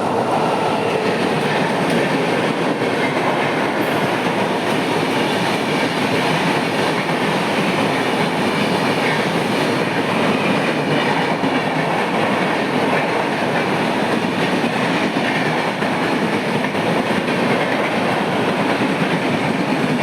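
Mumbai suburban local train, an electric multiple unit, running steadily on the rails, with a continuous rumble and the clatter of its wheels on the track.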